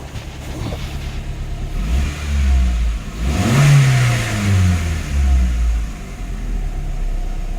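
2002 Saturn SL2's 1.9-litre DOHC four-cylinder engine idling, then revved up and let fall back several times, the highest rev about halfway through, before it settles back to a steady idle.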